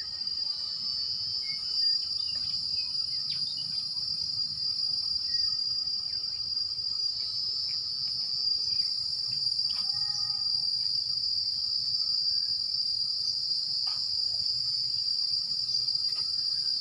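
Steady, high-pitched insect chorus, with short bird chirps scattered through it.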